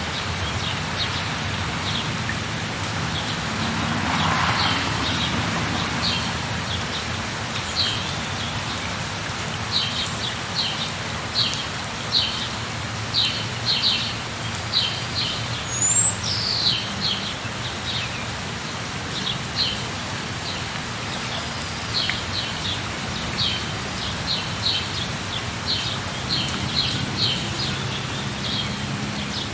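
Steady rain falling, with a bird calling in short, high chirps repeated in quick runs through the second half of the stretch.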